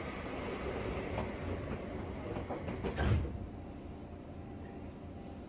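JR West 201 series electric train heard from inside its motor car at a station departure: a hiss of compressed air that cuts off with a low thump about three seconds in, followed by quieter steady train noise.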